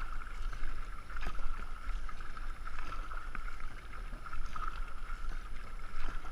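Racing canoe being paddled, with paddle strokes splashing about every second and a half. A steady wind rumble sits on the microphone.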